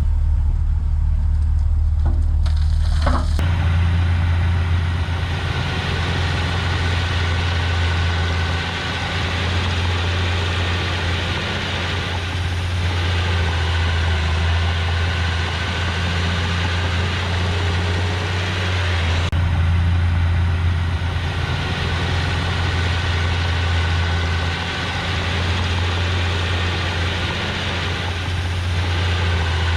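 Bulldozer's diesel engine running steadily with a deep, even drone. About three seconds in there is a sharp knock, and then a dense noise of the machine working joins the engine and carries on.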